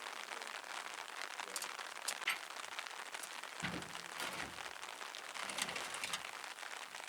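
Steady rain falling, with a high hiss and scattered sharp drip ticks. A brief low rumble comes about halfway through.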